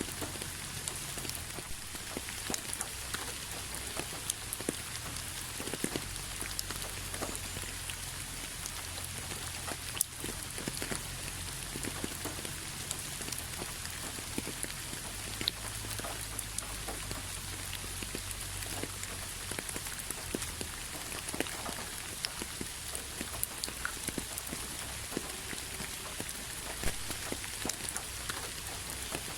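Steady rain falling on a hard surface, with many individual drops ticking sharply against a continuous hiss.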